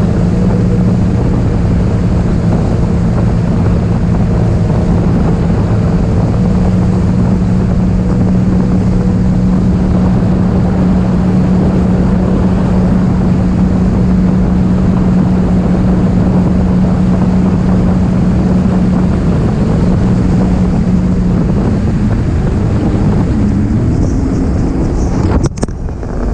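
Jet ski engine running at a steady, even pitch under way. Toward the end the pitch wavers, drops out for a moment, then settles a little higher.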